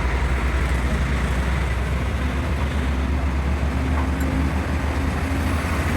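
An engine idling steadily with a low, pulsing rumble, with a faint steady whine joining in from about two and a half seconds in.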